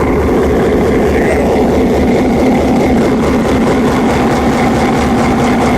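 EMD 16-cylinder 567 two-stroke diesel prime mover of a GP7 locomotive idling, a loud steady rumble heard close up at the engine.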